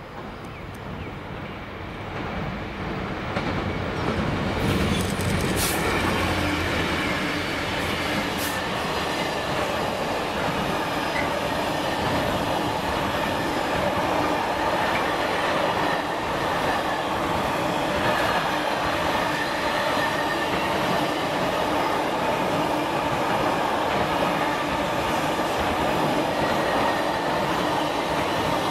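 Two Class 66 diesel locomotives hauling an intermodal container train through a station. The engines grow louder over the first few seconds and pass about four to six seconds in. Then comes a long, steady run of container wagon wheels on the rails, with a few sharp clicks.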